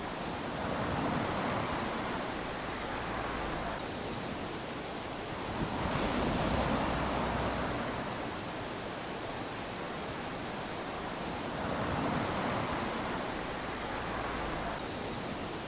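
Small waves lapping onto a sandy beach: a steady wash of surf that swells three times, each swell lasting a second or two before easing back.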